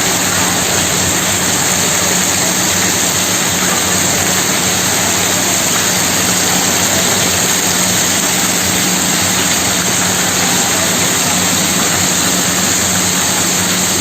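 Heavy rain pouring down in a steady, even hiss, with a steady low hum beneath it.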